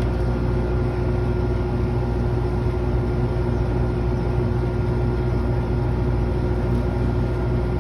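Carrier chiller running: a steady machinery hum with a strong low drone and a constant tone on top.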